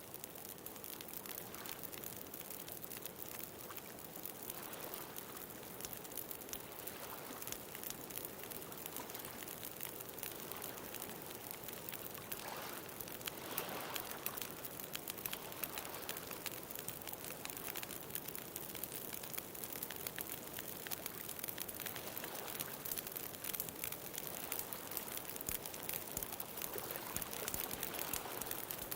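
Wood bonfire crackling with many small pops, over a steady wash of ocean waves.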